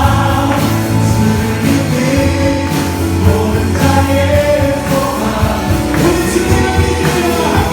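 A youth worship band performing a contemporary Christian praise song live: group singing over a full rock-style band with a strong bass line.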